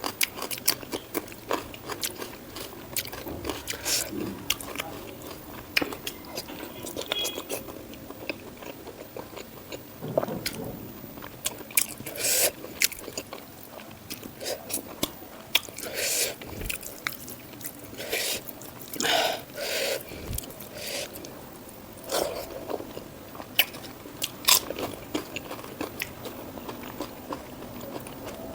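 Close-miked eating: chewing and biting with wet mouth sounds, broken by many short, crisp crunches.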